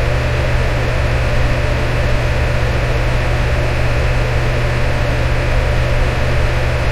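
Electric fan running steadily: an even whooshing hiss over a strong low hum, with no change in speed.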